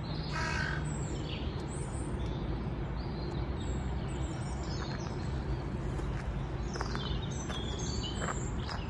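Birds calling outdoors: a short caw right at the start, then scattered brief high chirps over a steady low background hum.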